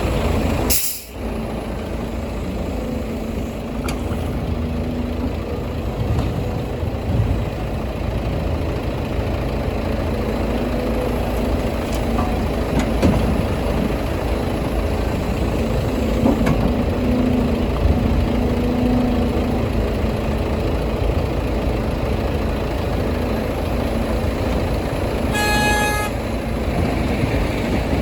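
Heavy diesel engines of a Volvo EC300E excavator and a dump truck running steadily during soil loading, with a short, high horn toot near the end.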